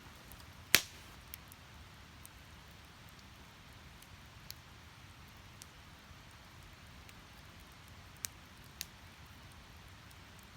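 Split firewood burning in a Snow Peak Takibi-dai fire stand: a faint steady hiss with scattered crackles, one sharp loud pop under a second in and two smaller pops near the end.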